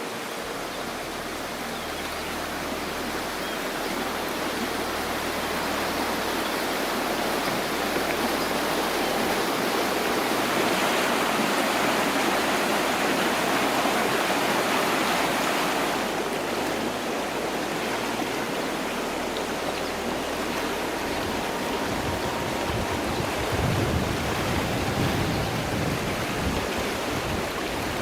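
Water rushing in a stream, a steady hiss that swells about a third of the way in and eases a little past the middle.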